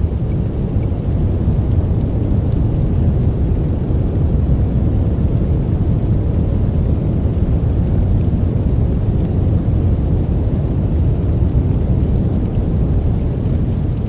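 Steady, deep noise for sleep, a continuous hiss-free rush with most of its weight in the bass and little treble, unchanging throughout.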